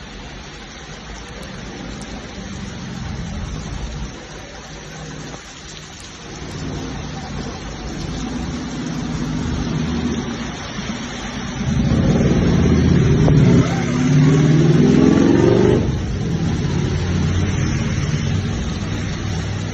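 Road traffic in the rain: cars going by over a steady hiss. About twelve seconds in, one vehicle accelerates close by, its engine rising in pitch and running loudest for about four seconds before fading.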